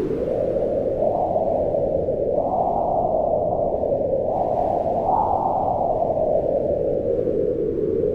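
Wind blowing steadily, a low rushing noise that swells and eases in slow gusts.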